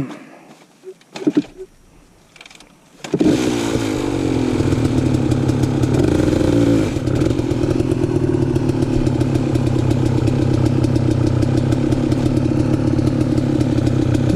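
A few knocks, then an enduro dirt bike's engine starts abruptly about three seconds in and runs steadily at idle, rising briefly about six seconds in before settling again.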